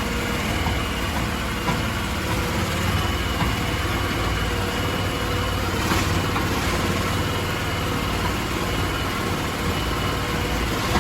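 Crawfish boat engine running steadily.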